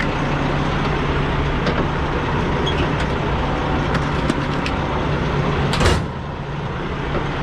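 Semi-truck diesel engine running steadily with a low hum and broad mechanical noise, heard from the cab. A short loud burst of noise comes about six seconds in, and it is slightly quieter afterwards.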